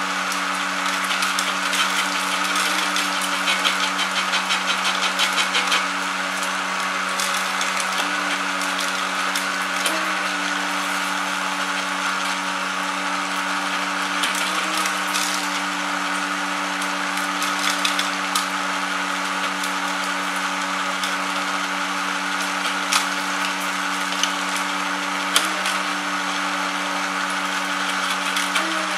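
Automatic production machine running: a steady motor hum with a second, higher tone that jumps briefly several times, over fast mechanical clicking and rattling that is busiest in the first few seconds.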